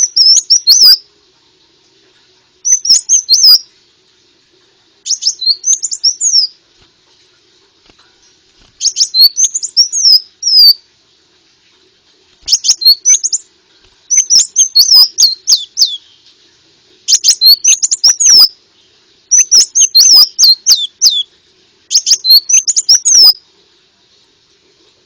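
Konin sunbird song: phrases of rapid, high, sweeping chirps, each a second or two long, repeated after short pauses, as played to lure konin birds. A faint steady hum runs underneath.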